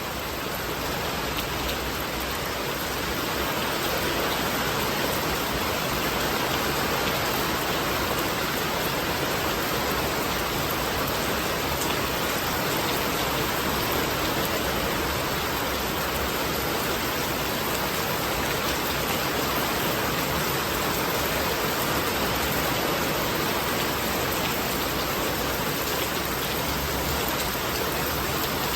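Steady rain falling in an even hiss, with no single drops or thunder standing out, fading in over the first few seconds.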